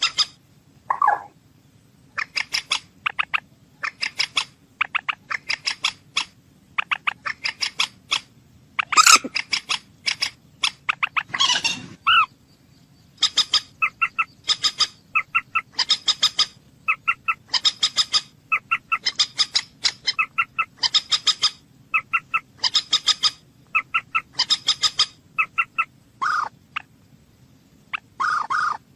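A bird calling over and over in quick runs of short, sharp notes, about one run a second.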